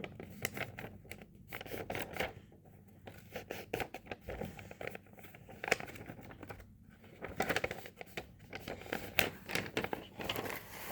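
A sheet of paper being folded and creased by hand: scattered short rustles and crinkles as it is handled and the folds are pressed.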